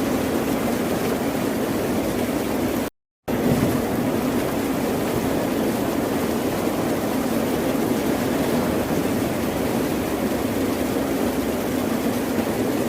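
Steady rushing noise of ocean surf, without distinct swells. It cuts out completely for a split second about three seconds in.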